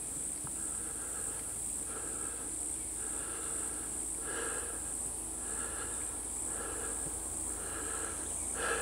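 Insects calling: a steady high-pitched buzz, with a lower chirping call that repeats about once a second.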